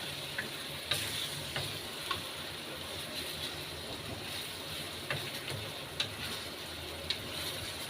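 Chicken afritada in tomato sauce sizzling and simmering in the pan, with a spoon being stirred through it and clicking against the pan several times.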